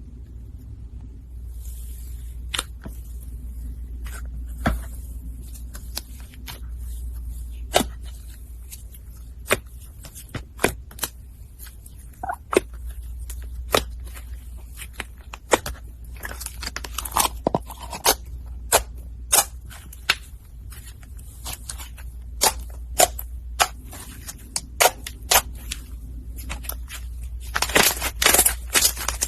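Foam slime being squeezed and poked by hand: irregular sharp pops and crackles, a few at a time, turning into dense crackling near the end.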